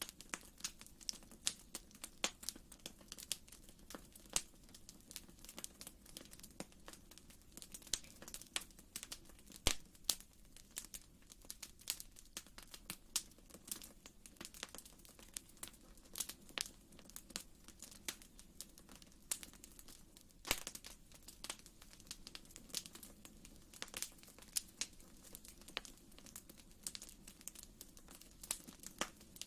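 Wood fire in a fireplace crackling, with sharp irregular pops several times a second over a faint steady low rumble.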